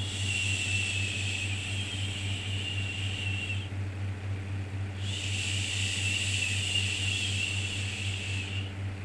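Soothing 'shhh' shushing sound for calming a baby, two long shushes of about three and a half seconds each with a short pause between, over a steady low hum.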